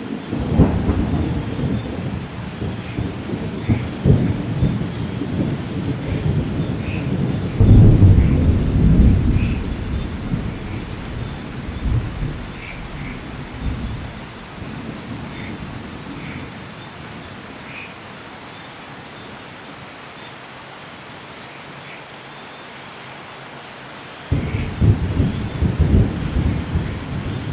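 Steady rain with rolling thunder. The rumble is heaviest about a third of the way in, dies away to rain alone, then comes back suddenly near the end. Faint short chirps recur over the rain.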